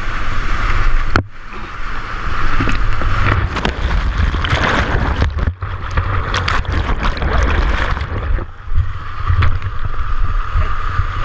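Kayak in whitewater rapids: rushing, splashing water with heavy low rumble on the microphone, and a run of sharp knocks and splashes in the middle.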